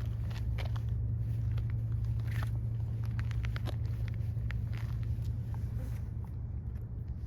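Steady low rumble with scattered small crunching clicks that thin out near the end.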